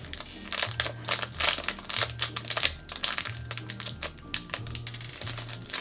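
Small plastic LEGO pieces clicking and rattling, with a plastic bag crinkling as they are handled, over background music with a repeating low bass note.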